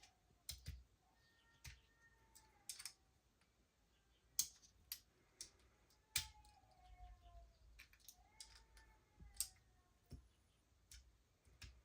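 Scattered sharp clicks and taps of small metal parts and tools being handled on a workbench while an airsoft gas blowback pistol is reassembled. A few faint wavering tones sound in the background.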